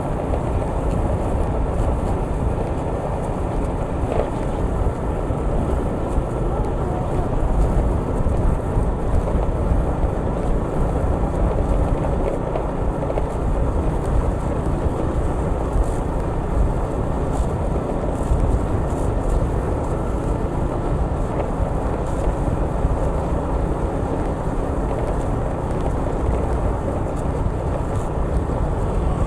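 Steady vehicle road noise with wind rumbling on the microphone while travelling along a road, even throughout with no sudden events.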